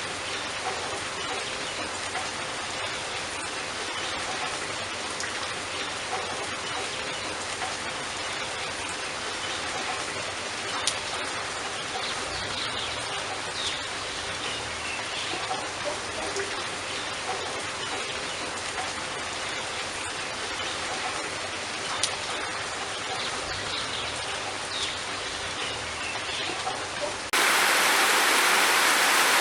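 Steady rain falling, with scattered single drops hitting close by. Near the end it cuts abruptly to a louder, denser rush of heavy rain.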